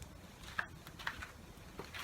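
Wood campfire crackling: a few faint, sharp pops and clicks at irregular moments over a low hiss.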